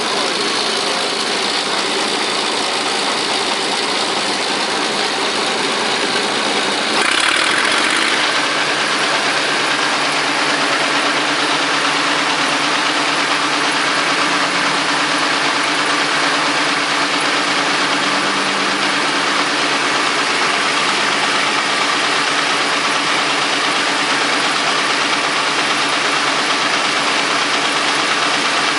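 Vintage Caterpillar D13000 diesel engine running steadily while driving a sawmill. Its sound changes and gets slightly louder about seven seconds in.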